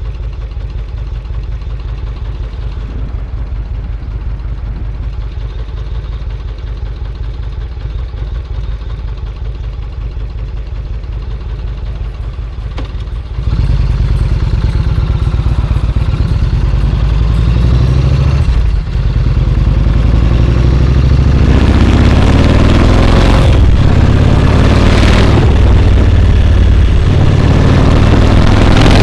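Yamaha Road Star XV1600's air-cooled V-twin idling with a steady low beat. About halfway through it gets much louder as the bike pulls away, with a brief drop a few seconds later. Over the last few seconds it runs loud under way, with a rushing noise on top.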